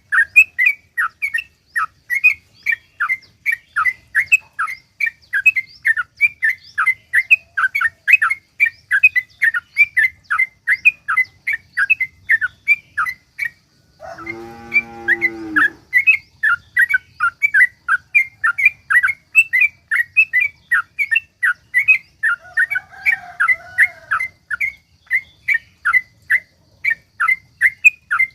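Yellow-vented bulbul (trucukan) singing a long, fast run of sharp chirps, about three to four a second, with no pause. About halfway through, the chirping breaks for about two seconds of a lower, buzzy call with several harmonics, then resumes.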